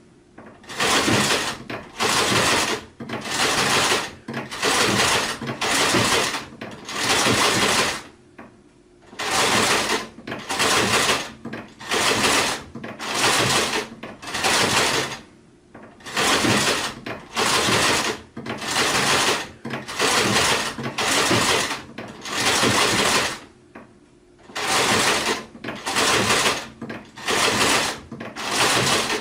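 Sewing machine stitching in short bursts, about one a second, in runs of six or seven with a longer pause between runs.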